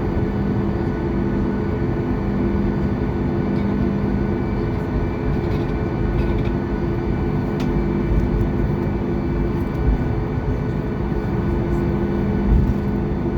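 Cabin noise inside a Boeing 737 MAX 8: its CFM LEAP-1B engines and the airflow making a steady rushing noise with a few steady hum tones, unchanging throughout.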